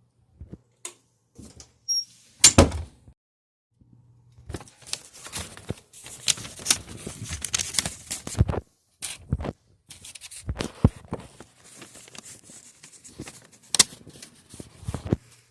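Scattered knocks and clicks with stretches of rustling, a loud thunk about two and a half seconds in and a sharp click near the end.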